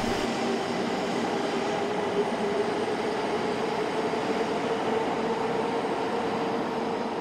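E2 series Shinkansen bullet train pulling out of a station past the platform, a steady rush of wheels on rail with an electric motor whine that rises slightly in pitch as it accelerates.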